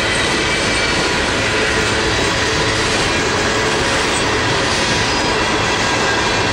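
Freight train hopper cars rolling past at speed: a loud, steady rumble of steel wheels on rail, with thin steady high tones running over it.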